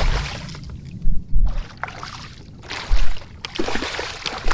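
Kayak paddle strokes splashing and dripping in the water, recurring about every second and a half, with wind buffeting the microphone.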